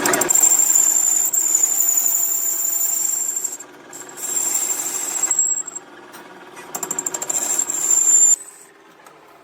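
High-pitched steady squeal from a workshop machine, heard in three stretches, the last one starting with a pulsing flutter, over a low machine noise.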